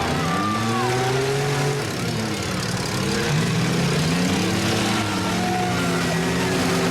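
Engines of several demolition derby cars revving up and down at once, their pitches rising and falling against each other.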